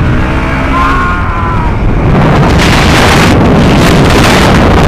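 Heavy wind buffeting the microphone of a moving motorcycle, a dense rumble that gets louder about two seconds in.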